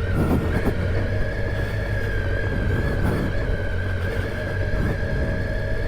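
Triumph Tiger 800 XCa's three-cylinder engine running steadily while under way, with road and wind noise mixed in.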